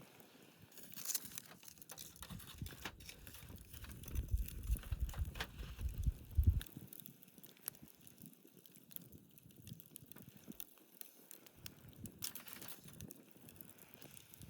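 Wood fire crackling, with irregular sharp pops and snaps. A low rumble swells in the middle and fades.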